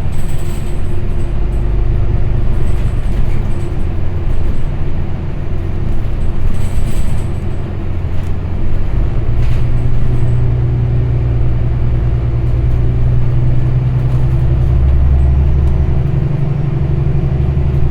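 Transit bus running between stops, heard from inside the cabin: a steady low engine drone with road rumble. The engine note shifts and grows heavier about halfway through, with a few faint rattles.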